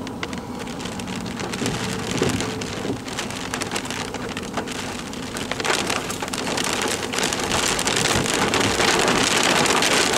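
Rain pattering on a car's roof and windshield as many separate drop hits, getting heavier and louder over the last few seconds.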